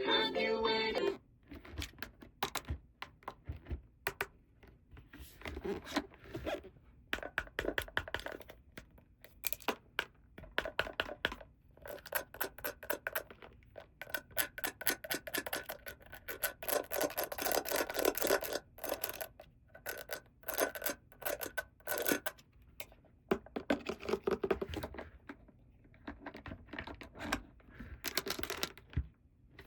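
Hands handling plastic toy pieces and packaging: an irregular string of small clicks, taps and scrapes, coming in clusters with short quiet gaps between them.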